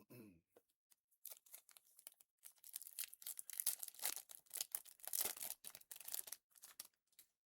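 A trading card pack wrapper being torn open and crinkled by hand: a rapid, irregular crackling that thickens about three seconds in and dies away near the end.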